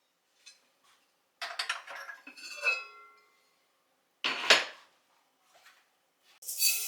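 Dishes and cutlery clinking and clattering: a run of ringing clinks about a second and a half in, one louder knock a little past four seconds, and another clatter near the end.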